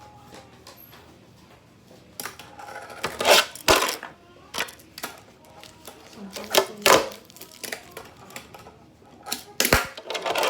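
Tech Deck fingerboard clacking against a hard surface as fingers ride and flip it: an irregular run of sharp plastic clicks and knocks, loudest in a cluster about three to four seconds in and again near the end.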